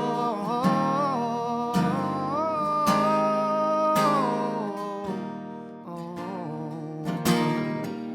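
Acoustic guitar strummed live, with a wordless vocal melody held and gliding over the first half, then fading to guitar strums alone toward the end.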